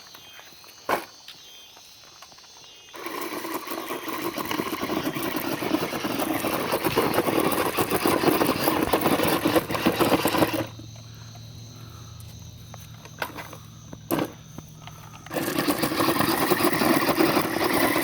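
R/C monster truck's motor running hard as it spins its tyres in loose rocks, gravel spraying. It runs in two bursts: from about three seconds in to past the middle, then again near the end, with a faint hum between.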